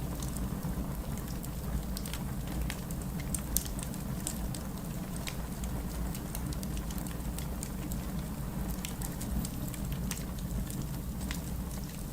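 Steady heavy rain, a dense hiss with a low rumble, mixed with the scattered sharp crackles and pops of a wood fire.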